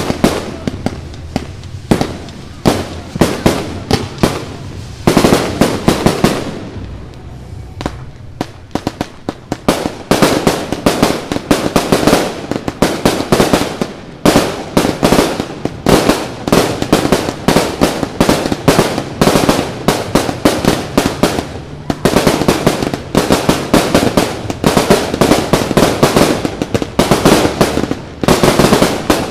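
Aerial fireworks shells bursting in rapid volleys of sharp bangs and crackles. There is a short lull about seven to nine seconds in, then the bangs come thick and fast, almost without a break.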